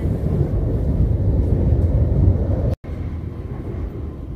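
Steady low rumble of a moving passenger train, heard from inside the carriage. About two-thirds of the way through it cuts out for an instant and comes back somewhat quieter.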